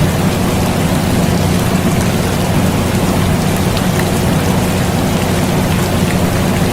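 Steady rain falling together with the continuous low hum of an air conditioner, with a few faint drop ticks.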